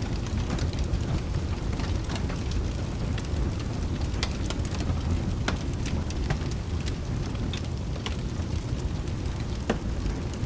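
Rain, thunder and fireplace ambience mix: a steady low rumble of rain and thunder under irregular sharp crackles and pops from a wood fire. One louder pop comes near the end.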